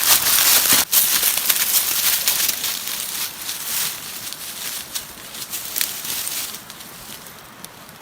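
Dry leaves and brush rustling and crackling, with scattered small snaps, loudest in the first half and dying down toward the end.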